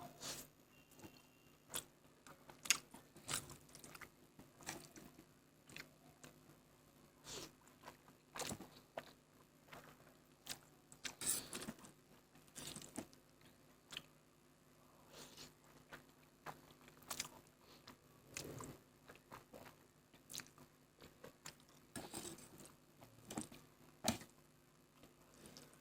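A person eating Maggi instant noodles close to the microphone: irregular, short chewing and biting sounds, many of them in quick succession.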